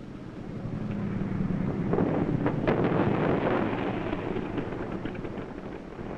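A propeller plane's piston engine landing on a carrier deck after the cut: the engine noise swells to its loudest midway and then dies away, with a couple of sharp knocks about two seconds in.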